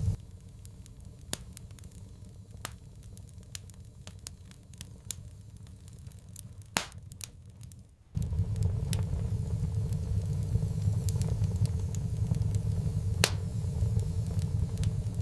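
Wood fire crackling, with scattered sharp pops and snaps, two of them louder. A steady low rumble is absent at first and comes in about eight seconds in.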